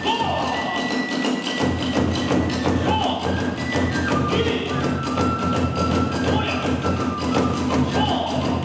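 Kagura hayashi accompaniment: drums and hand cymbals playing a fast, driving beat under a bamboo flute melody, with the deep drum coming in about a second and a half in.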